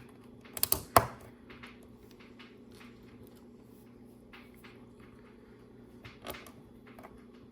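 Small plastic clicks and taps of LEGO pieces being handled and pressed onto a baseplate, with a quick cluster of sharper clicks about a second in and another about six seconds in, lighter ticks between, over a faint steady hum.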